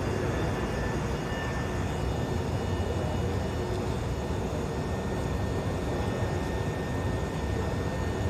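An engine on a test run, running steadily at an even level with a faint steady whine above its low rumble.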